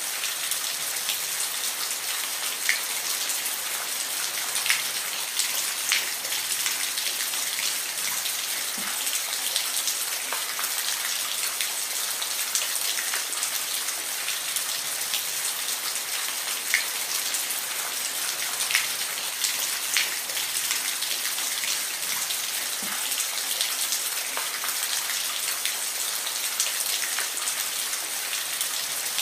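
Steady rain: a dense, even hiss of falling rain with scattered louder individual drops ticking on a surface.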